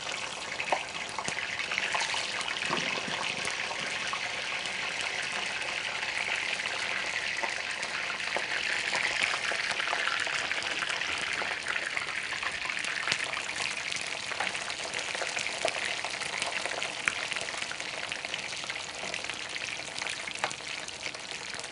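Potato sticks deep-frying in hot oil in a pan: a steady sizzle with scattered small pops.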